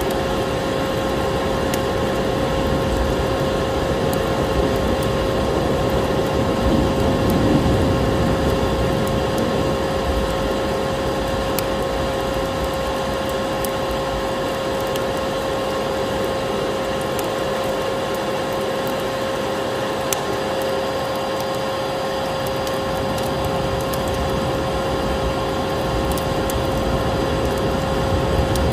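Vacuum cleaner running steadily: a constant motor whine over an even rushing of air, with scattered small crackles throughout.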